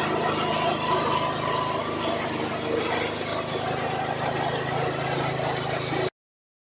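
Soybean-splitting and hull-separating machine running with a steady mechanical hum and rattle, cutting off suddenly about six seconds in.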